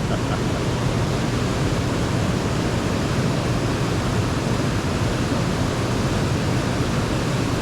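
Steady, even rush of moving water, like water pouring from a dam.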